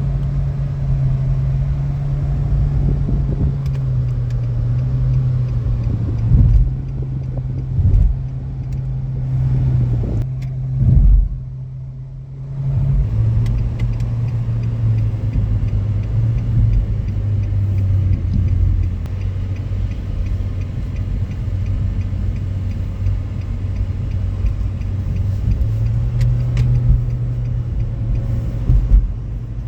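A car driving, its engine droning steadily with road noise. The drone drops in pitch about halfway through and rises again near the end, and a few loud low thumps come in the first dozen seconds.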